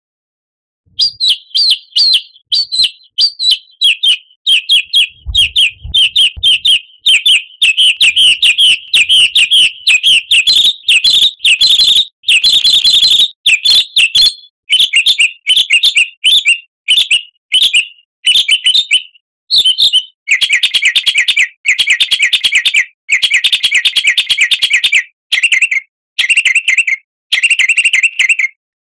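Songbird chirping in rapid, high, short phrases with brief pauses, turning into denser, faster trills in the last third.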